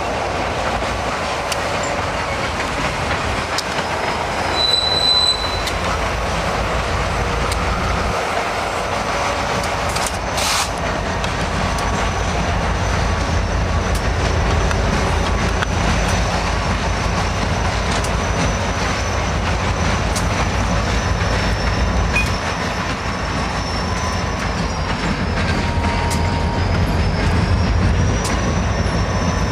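Train rolling slowly through a rail yard: steel wheels squealing in long held tones that dip in pitch and come back near the end, over a steady rumble, with scattered clicks as the wheels cross rail joints.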